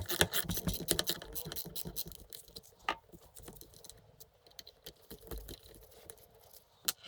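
Quick, light clicking and ticking of a T15 Torx driver and small metal parts, as screws are undone on a transmission mechatronics unit's solenoids. The clicks come thickly for the first couple of seconds, then thin out, with one sharper click near the end.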